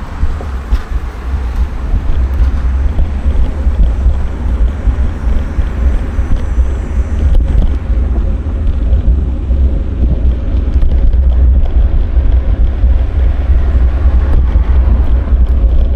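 Wind buffeting a moving action camera's microphone during a bike ride, a steady, loud low rumble with road and traffic noise under it.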